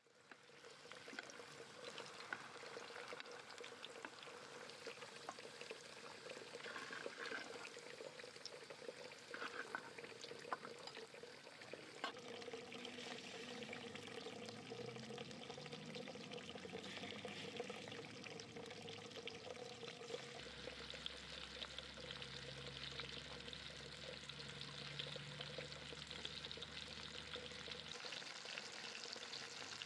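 Hot oil sizzling in a frying pan, with many small crackling pops, as potato pieces and then chicken pieces fry.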